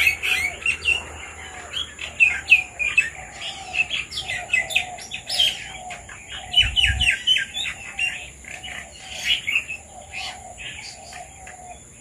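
Birds chirping busily, red-vented bulbuls among them: many quick, overlapping chirps and whistles. A lower note repeats more than once a second beneath them, over a steady high-pitched drone.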